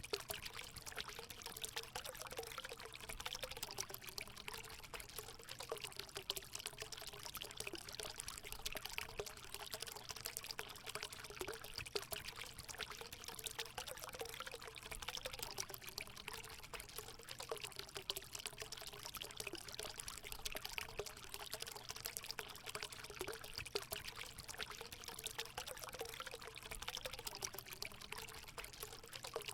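Water running and splashing steadily into a hot spring pool, a continuous pouring trickle with a slightly wavering gurgle.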